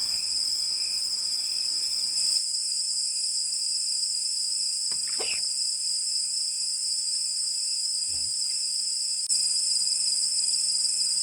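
A dense chorus of insects trilling steadily at a high pitch. It grows a little louder near the end, and a brief short sound rises through it about five seconds in.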